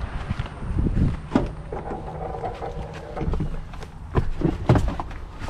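Kayak paddling: irregular knocks of the paddle against the hull over a low rumble of wind on the microphone, with a brief steady hum about two seconds in.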